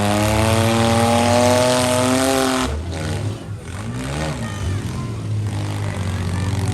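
Demolition derby van engine revving, its pitch climbing steadily for about two and a half seconds and then dropping off sharply. After that come shorter revs that rise and fall.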